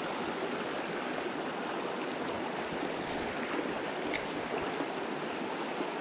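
Small mountain stream running over rocks, a steady rushing babble, with one faint tick about four seconds in.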